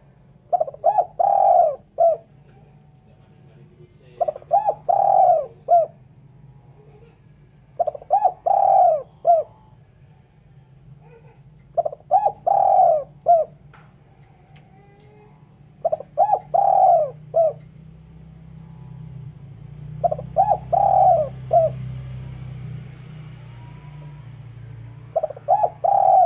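Spotted dove (terkukur) cooing: a short phrase of a few low coo notes repeated about every four seconds, seven times. A faint low hum runs behind and grows a little louder in the second half.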